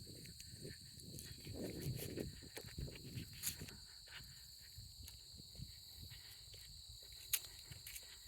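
Crickets chirring in a steady high trill, over footsteps and small clicks on a walking trail, with one sharper click about seven seconds in.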